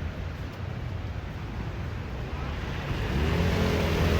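City street traffic noise, with a motor vehicle's engine coming closer and growing louder from about three seconds in.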